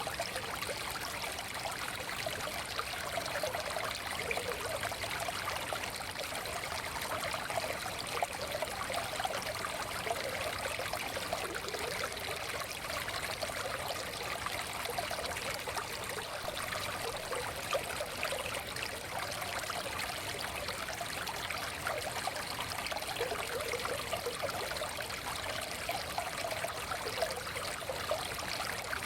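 Small forest stream flowing and trickling over stones, a steady burble of running water.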